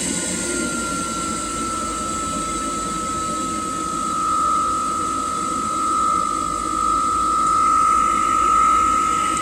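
Blower fan running steadily: a high whine over rushing air, getting a little louder in the second half.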